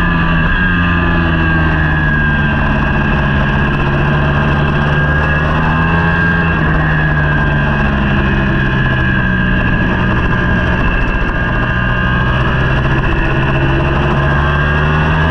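Racing superbike engine running hard, its pitch rising and falling repeatedly as it accelerates and slows through the corners.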